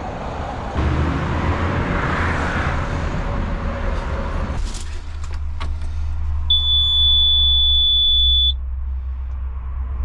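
Komatsu PC210 excavator's diesel engine idling with a steady low rumble, and one high, pure electronic beep about two seconds long from the cab's warning buzzer, starting about six and a half seconds in.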